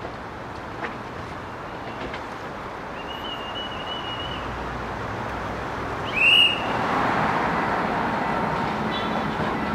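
Korail electric commuter train approaching slowly, a steady rumble growing gradually louder. About six seconds in, a short, loud, high-pitched rising whistle sounds, followed by louder steady street traffic.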